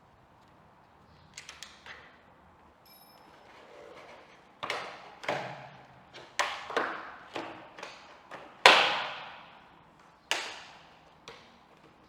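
Irregular series of sharp knocks and clacks, each with a short ringing tail, from tools and parts being handled during motorcycle work. A few light clicks and a faint ping come first, and the loudest knock falls about two-thirds of the way through.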